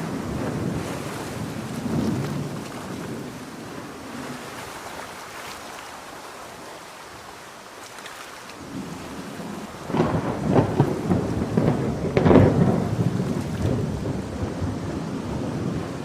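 Thunder rolling over steady rain. The rumble fades to a lull midway, then comes back loud with sharp cracks about ten and twelve seconds in.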